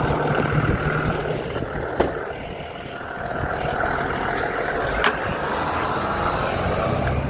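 An engine running steadily with a low hum. It eases off about two seconds in and picks up again about a second later, with sharp clicks about two and five seconds in.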